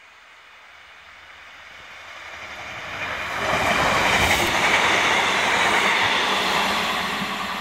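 ScotRail Class 156 diesel multiple unit running through the station without stopping, wheels and running gear clattering on the rails. It grows louder for about three and a half seconds, is loudest as the carriages pass close by, and begins to fade near the end.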